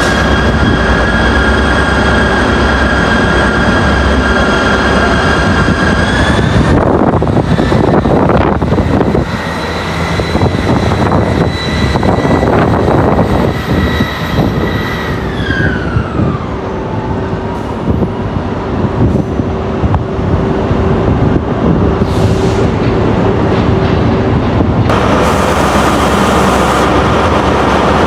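Train at a station platform, a steady whine over its rumble. The whine steps up in pitch about six seconds in, holds, then slides down again around fifteen seconds in. A hiss joins near the end.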